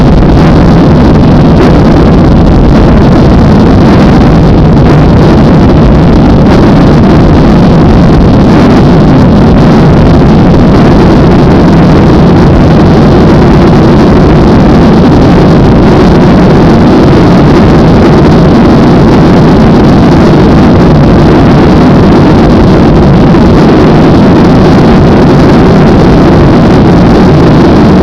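Airliner engines and rushing air during takeoff, a steady, very loud roar with no change in pitch.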